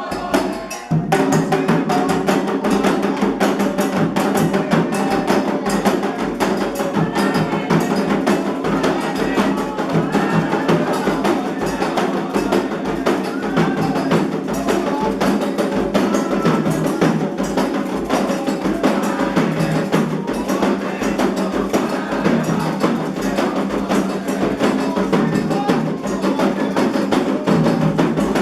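Candomblé ritual music: atabaque hand drums played in a steady, fast rhythm with a sharp clacking percussion line, and voices singing a chant over them.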